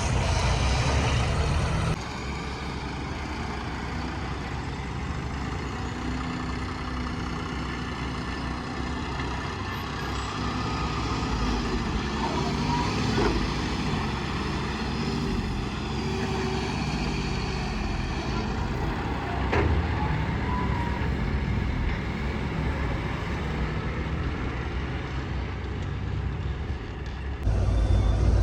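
Heavy diesel vehicle engine running steadily, with a couple of brief clunks. The sound changes abruptly about two seconds in and again near the end.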